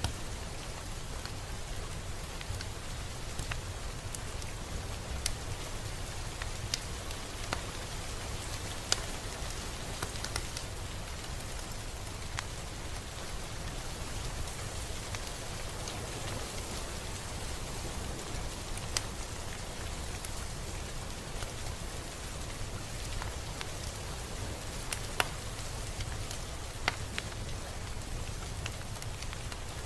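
Steady rain falling on a surface: an even hiss, with scattered sharp ticks of individual drops hitting close by.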